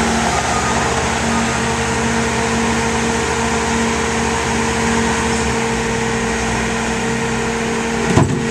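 Bobcat T750 compact track loader's diesel engine running steadily, with a brief louder swell near the end.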